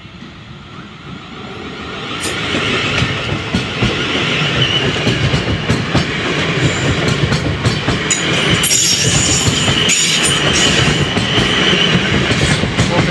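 South West Trains electric multiple unit pulling away from the station and passing close by over a level crossing. The noise swells over the first two seconds into steady loud running, with rapid wheel clicks over the crossing's rail joints and a steady high whine.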